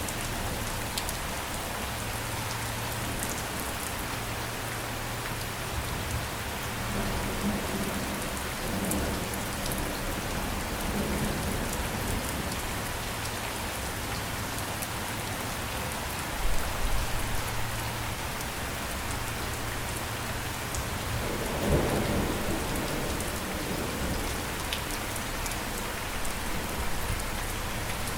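Steady rain falling, with low rumbles of thunder, the strongest a little over twenty seconds in.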